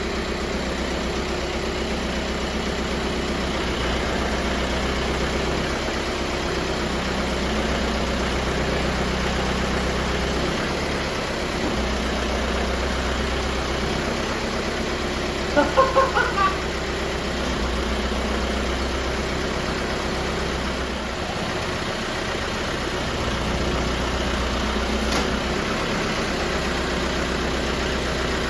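Volkswagen 1.9 L four-cylinder TDI diesel engine, swapped into a Jeep Wrangler, running steadily at idle just after being started. A short burst of three or four high chirps cuts in about halfway through.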